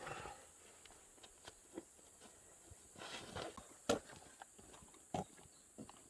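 Scattered soft taps and clicks at irregular intervals, with a brief rustle at the very start and a sharper tap about four seconds in.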